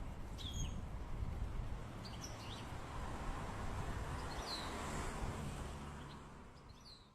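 A few short, high bird chirps, about four spread over several seconds, over a steady low rumble of outdoor background noise that fades out near the end.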